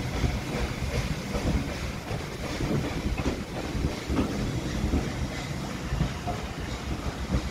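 Passenger coaches of a steam-hauled train rolling past, their wheels knocking irregularly over the rail joints over a steady low rumble.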